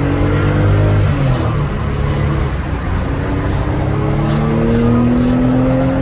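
1970 Porsche 911S's air-cooled flat-six engine driving; the revs drop about a second in, then climb steadily through the second half as the car accelerates.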